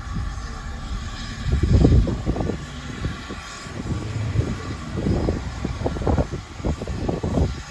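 Wind buffeting the microphone in irregular low gusts, loudest about two seconds in, over a faint steady hum.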